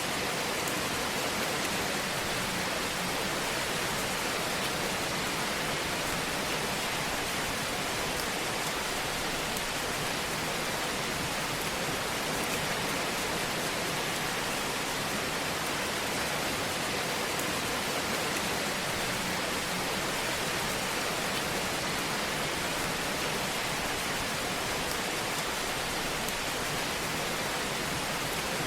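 Fire in a fireplace: a steady hiss with faint, scattered crackles.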